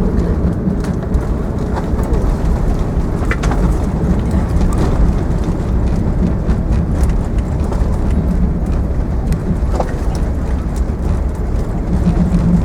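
Steady low rumble inside the cabin of an Airbus A380, with a few faint clicks and ticks over it.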